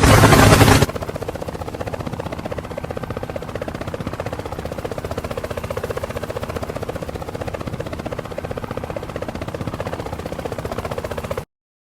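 The end of a loud chanted song cuts off about a second in, then helicopter rotor blades beat in a steady, fast, even pulse. The sound stops abruptly shortly before the end.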